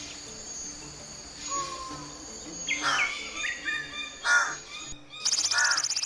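Birds calling over a steady high-pitched insect drone: short whistled notes and chirps, then a loud, rapid buzzing trill starting about five seconds in.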